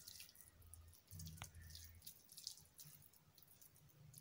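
Faint, soft squishing and crackling of hands pressing a floured minced-meat mixture into kebab shapes, over a faint low hum, with one small click about a second and a half in.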